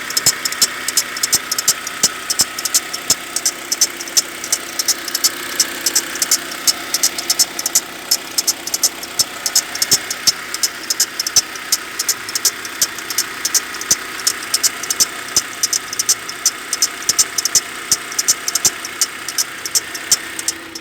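An engine idling steadily with a fast, even ticking, about four ticks a second, on top of its hum. The ticking is the extraneous noise being recorded.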